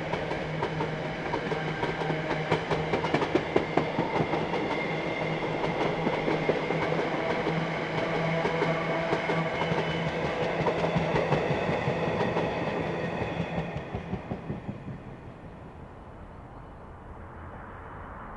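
Container freight train's wagons rolling past, wheels clicking over the track with a steady low hum. The sound fades away about fifteen seconds in as the last wagons pass.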